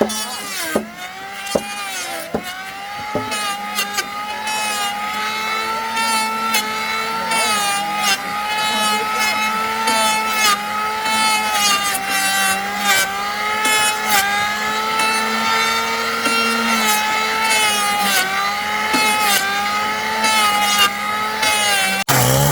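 A handheld electric power tool running under load on wood, its motor whine dipping in pitch again and again as it bites and frees. Scattered clicks sound along the way. The sound changes abruptly near the end.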